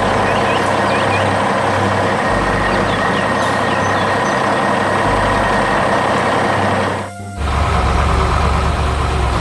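Heavy construction machinery engines running steadily, with music underneath. The sound drops out for a moment about seven seconds in, then returns as a deeper, steadier engine hum.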